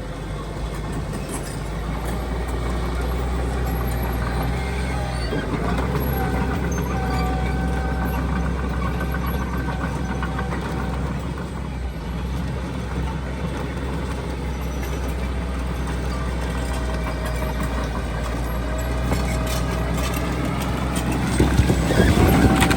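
Heavy diesel earthmoving machinery running steadily, with a faint whine above the engine note. It grows louder and rougher for about a second near the end.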